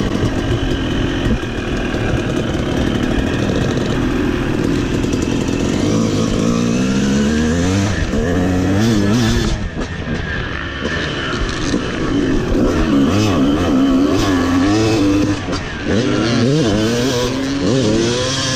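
Dirt bike engine being ridden hard on a motocross track, its pitch rising and falling over and over as the throttle is opened and shut.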